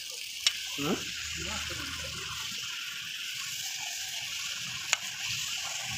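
Chicken and onions sizzling steadily in a steel kadai as they are stirred. A metal spoon knocks against the pan twice, about half a second in and about five seconds in.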